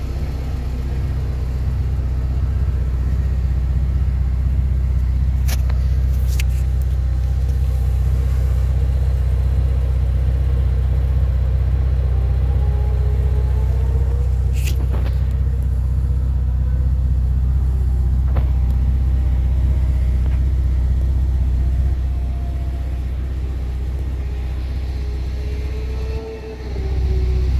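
K20-swapped Honda Civic EG's four-cylinder engine idling, a steady low exhaust rumble, with a few sharp clicks over it.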